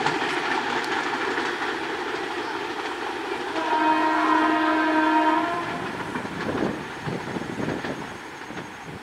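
Diesel-hauled passenger train running fast on the rails, its wheel and carriage noise fading as it moves away. A train horn sounds once, steadily, for about two seconds, starting about three and a half seconds in.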